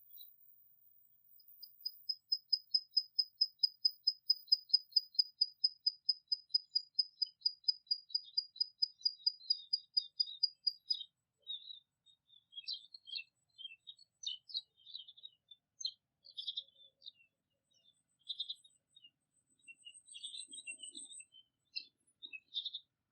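Songbird singing: a long trill of fast, evenly repeated high notes, about five a second for some ten seconds, dropping slightly in pitch, followed by scattered short chirps and twitters.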